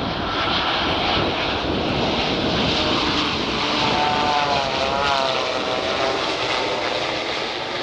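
Boeing 787 airliner passing on its landing approach with the ram air turbine deployed. Its jet engines make a steady, loud roar, and a wavering whine stands out from it for a couple of seconds in the middle.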